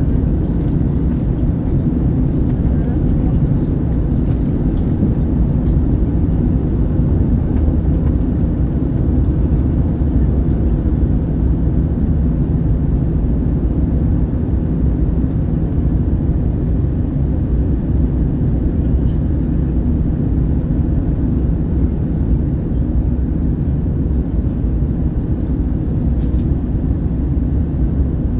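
Steady cabin noise inside an Airbus A321 in flight: a low, even rumble of airflow and the CFM56 jet engines.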